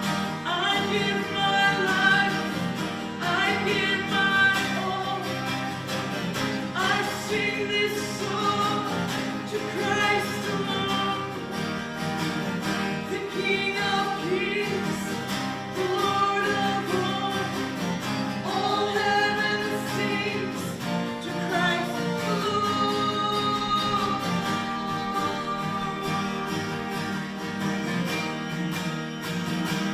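A group of voices singing a gospel hymn together to guitar accompaniment, ending on a long held note.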